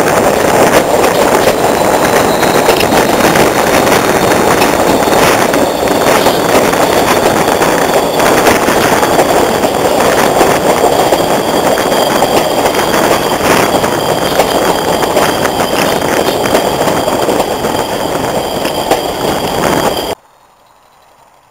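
Class 40 diesel locomotive with its English Electric 16-cylinder engine working hard under load, a loud, dense thrash with crackling and a steady high whistle over it. The sound cuts off abruptly about 20 seconds in.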